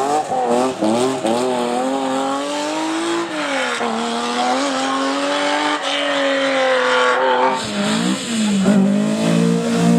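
Rally car engine revving hard. In the first second or two the pitch climbs in quick sweeps as the driver changes gear; the engine then holds high revs, falls away about two thirds of the way through, and picks up again near the end.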